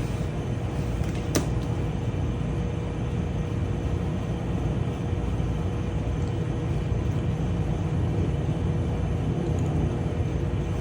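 A steady low rumble with a faint steady hum above it, and one sharp click a little over a second in.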